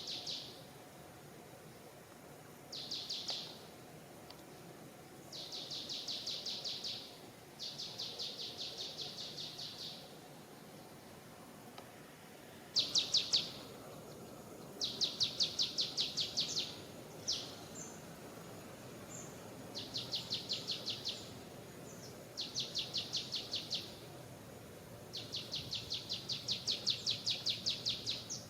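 A bird calling again and again in high, rapid trills. Each trill is a quick run of repeated notes lasting one to three seconds, and the trills come every couple of seconds. A steady background hiss runs underneath.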